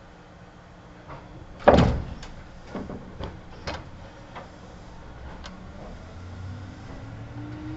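Kintetsu 1810 series electric train at a standstill, with one loud bang about two seconds in and a run of lighter clanks and knocks after it. Near the end a faint whine rises slowly in pitch as the train's motors begin to pull it away.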